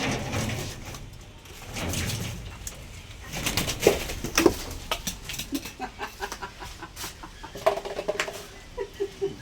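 A bird struggling to get free, with sharp knocks and scuffles, then giving a run of short calls in the last couple of seconds.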